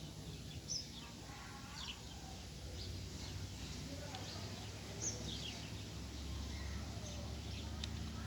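Birds chirping now and then, short high calls about a second in and again around five seconds in, over a steady low hum.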